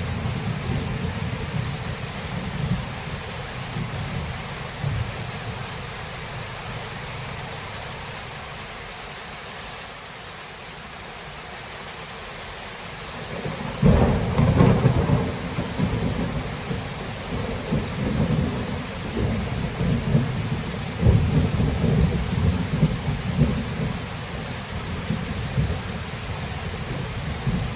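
Steady rain falling during a thunderstorm, with low thunder rumbling. About halfway through a loud thunderclap breaks in and rolls on in repeated rumbles.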